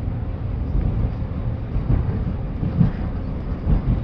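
Interior noise of a moving passenger train: a steady low rumble of wheels on the rails, with a few louder low thumps near the end.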